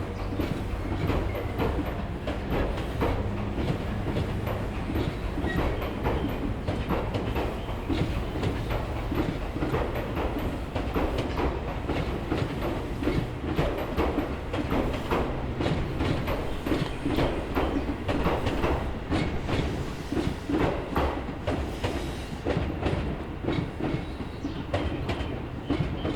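Train running on the line, its wheels clattering over rail joints in a steady run of clicks over a low rumble.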